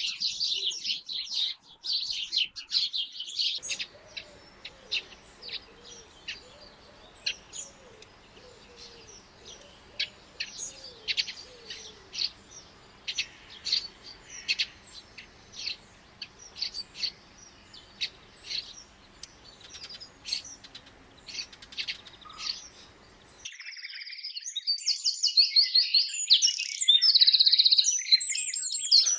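Small songbirds chirping and twittering. A dense run of high chirps gives way to scattered single chirps over a faint steady hiss, then loud, fast twittering song returns near the end.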